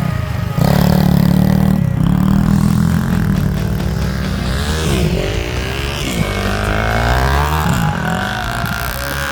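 Off-road motorcycle engine revving, its pitch rising and falling several times in the second half.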